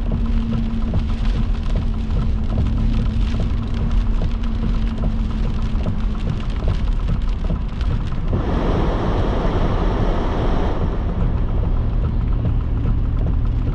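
Heavy rain pelting a car's roof and windshield, heard from inside the cabin, with a steady low rumble under it. A steady hum drops out about six seconds in, and the rain swells to a louder rush for a couple of seconds past the middle.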